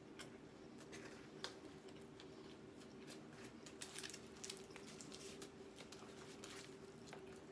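Faint chewing of pizza: soft wet mouth clicks and smacks scattered through, over a steady low hum.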